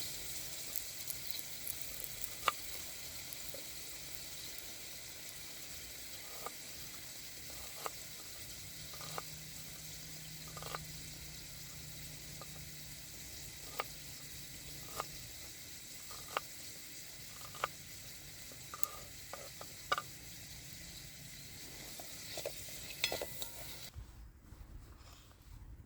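Food sizzling in a frying pan, a steady hiss with scattered sharp pops and crackles. The sizzle cuts off suddenly near the end.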